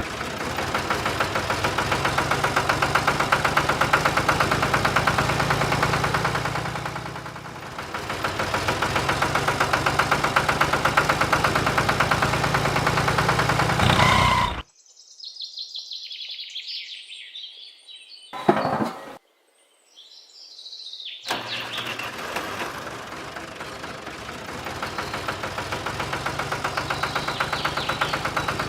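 An engine running steadily with a fast, even beat, easing off briefly partway through. It cuts out for several seconds, when birds chirp and there is one short loud burst, then the engine runs again.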